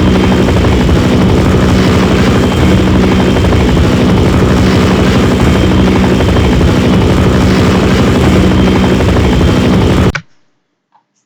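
Helicopter running steadily, its rotor beating rapidly over a constant engine hum, then cutting off abruptly about ten seconds in.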